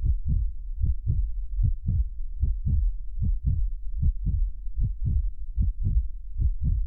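Heartbeat: steady paired low thumps, lub-dub, a little over one beat a second.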